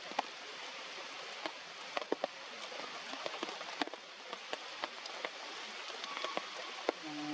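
Steady heavy rain falling, with many sharp drop hits clicking on nearby surfaces.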